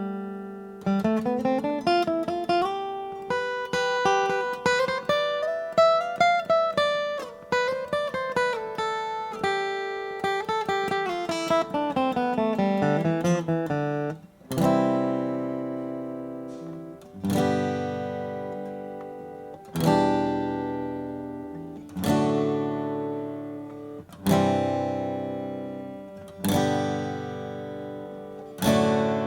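1947 Martin D-18 mahogany-bodied dreadnought acoustic guitar being played: quick single-note runs that climb and fall for the first half, then about halfway through a series of full chords struck roughly every two seconds and left to ring out.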